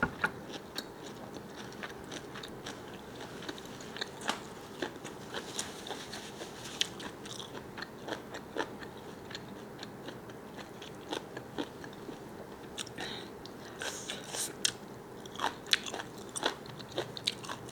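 Close-miked eating sounds: someone chewing and biting a large squid, with irregular small clicks and crackles from the mouth and food.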